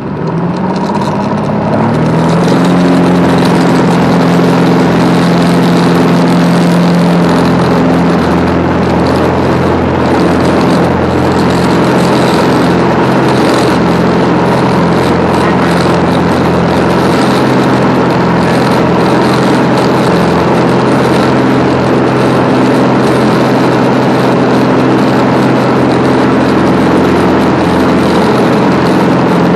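Piper Comanche 250's six-cylinder Lycoming O-540 engine and propeller heard from inside the cabin, rising in pitch and level over the first two seconds as power comes up, then running steadily at high power.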